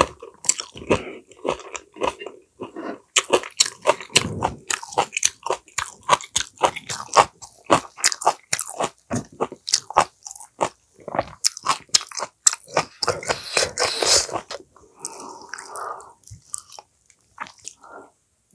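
Close-miked chewing and biting of a pumpkin-leaf ssam, steamed pumpkin leaf wrapped around rice and gangdoenjang, with many quick mouth clicks. It thins out and softens about three-quarters of the way through.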